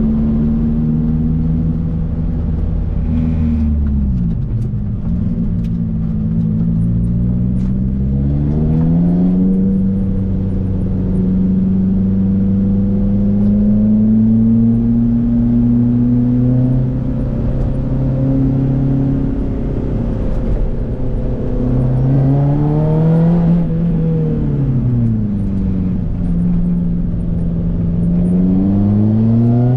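Lotus Elise's engine heard from inside its cabin under way, its note changing with throttle and gears. The pitch drops early on, climbs again about a third of the way through, holds steady through a long cruising spell, then rises and falls once more and climbs again near the end.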